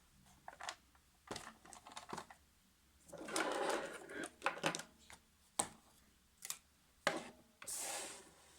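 Small electric drive motor of a 1:16 scale remote-control toy car whirring in two short bursts, one about three seconds in and a shorter one near the end, among scattered clicks and knocks of plastic handling.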